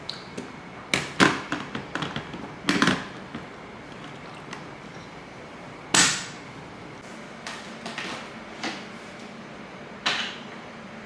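Scattered knocks and clunks of objects being handled, the loudest about a second in, a cluster near three seconds, a sharp one at six seconds and a last one near ten seconds.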